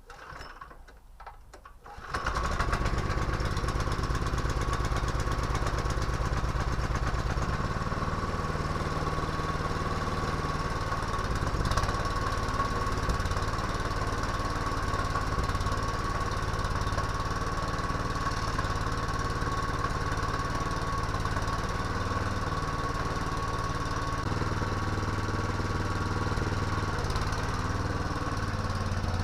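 Walk-behind tractor's small engine, fitted with a new starter cord, starting about two seconds in and then running steadily, its low hum shifting slightly a few times.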